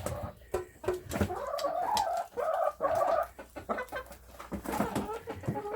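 Domestic chickens clucking and calling while feeding, with several drawn-out wavering calls about a second in, and many short clicks throughout.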